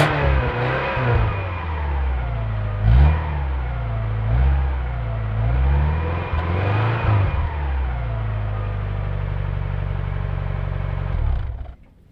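Subaru Impreza 2.0 turbo's flat-four boxer engine revved in several short blips, each rising and falling back, then idling steadily before cutting off suddenly near the end.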